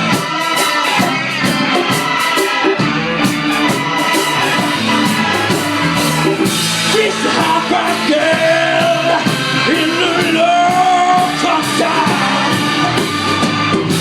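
A live rock band playing a song at full volume, with a steady drumbeat under guitar and keyboard chords and a voice singing.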